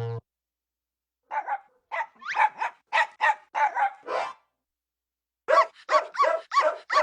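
A dog barking in quick, high yaps: a run of about ten barks, a pause of about a second, then a second run of about six.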